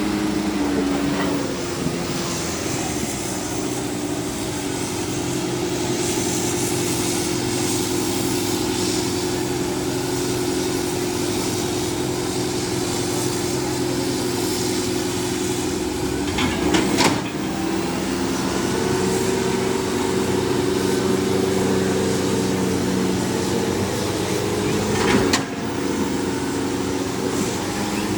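Diesel tractor engine running steadily, its pitch dipping and recovering twice, with a brief sharp noise at each dip. Voices can be heard in the background.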